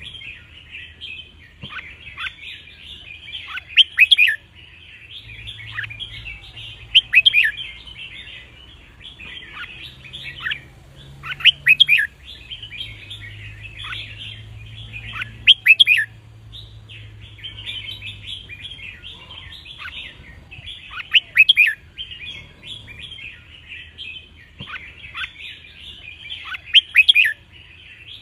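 Red-whiskered bulbuls singing: loud, quick phrases about six times, every three to six seconds, over continuous chattering twitter.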